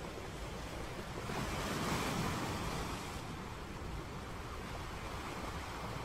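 Outdoor harbour ambience of wind and water noise, swelling louder for about two seconds a little over a second in, then settling back to a steady hiss with a low rumble.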